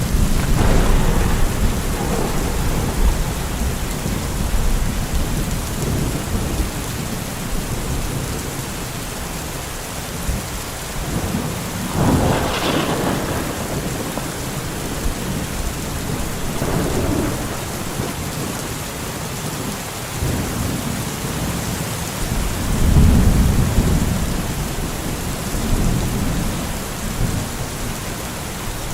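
Steady heavy rain with thunder rolling in low rumbles, including a sharper thunderclap about twelve seconds in.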